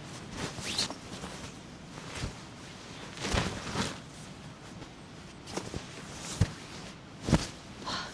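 Scattered knocks and rustles of someone moving about, like footsteps and handling of gear, irregularly spaced, with two sharper knocks about six and a half and seven and a half seconds in.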